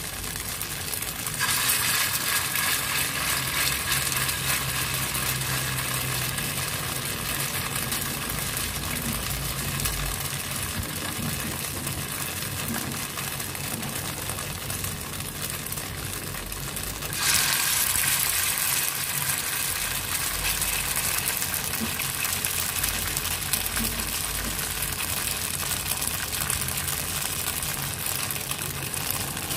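Tofu and dried-shrimp fritters deep-frying in hot oil in a wok: a steady sizzle that jumps louder about a second and a half in and again about halfway through, as fresh spoonfuls of batter go into the oil.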